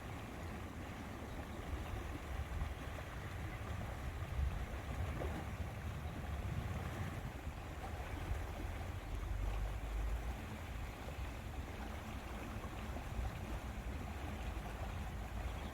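Lake water lapping against the shore with steady wind, and a low, fluctuating rumble of wind on the microphone underneath.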